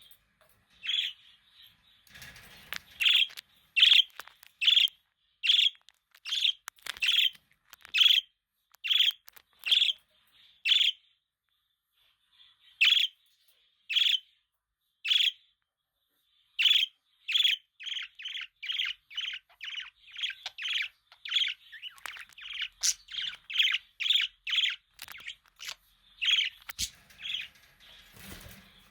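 Budgerigar giving short, sharp chirps in a steady series, about one a second. After a sparser stretch near the middle, the chirps come faster, about two a second, through the second half.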